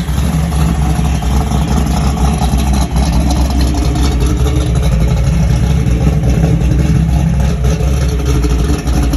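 Chevrolet Chevelle's engine running on the road, a steady low rumble mixed with road noise.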